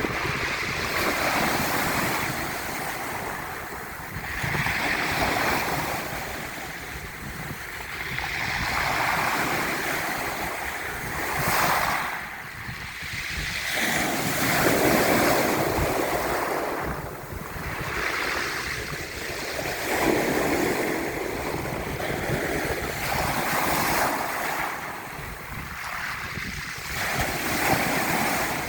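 Ocean waves breaking and washing ashore, a steady rushing surf that swells and fades every few seconds.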